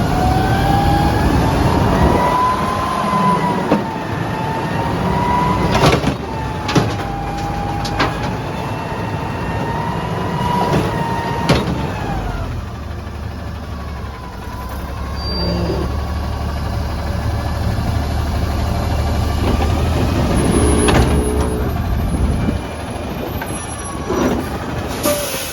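Heil Half/Pack front-loader garbage truck working its hydraulics: the engine is revved up with a wavering hydraulic pump whine, punctuated by several metallic bangs. About halfway through, the whine drops away, leaving the truck's engine running low, and a few more clanks come near the end.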